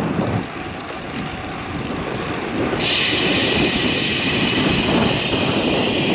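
Wind buffeting the microphone and rolling road noise from a road bicycle in motion, a steady rumbling hiss. About three seconds in, a loud, even high hiss joins it.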